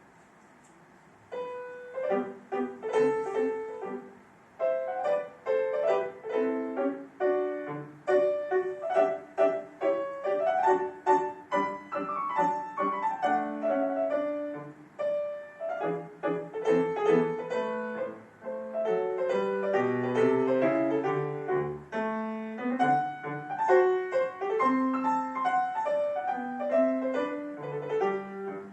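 Solo acoustic piano playing a classical piece in quick runs of notes, beginning about a second in after faint room hiss.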